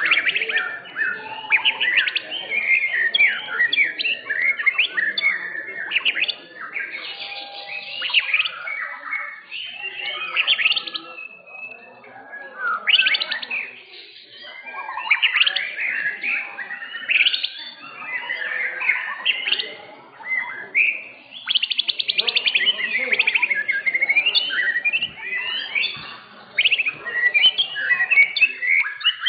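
White-rumped shamas (murai batu) singing: a dense, fast-changing stream of loud whistles, rapid trills and rattling notes, broken by a few short pauses.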